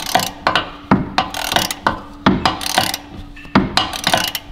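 Hand ratchet clicking in repeated strokes as it unscrews a rear wheel bearing mounting bolt that has just broken loose.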